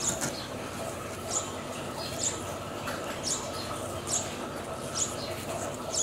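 A bird chirping repeatedly: a short, high chirp about once a second.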